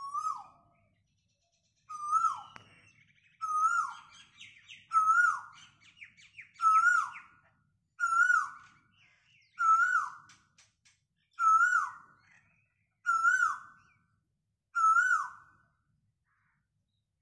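A bird repeats a short, falling, whistled call about every second and a half, ten times in a row. Fainter chirps from other birds come in between the calls for a few seconds.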